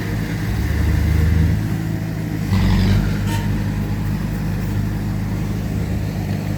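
Heavy diesel engine of an earthmoving machine running steadily, with a louder, noisier surge about two and a half seconds in.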